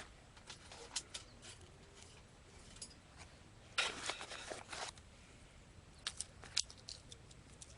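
Faint clicks and light taps of small split kindling being handled and set in a fire stand, with a brief scratchy rustle about four seconds in.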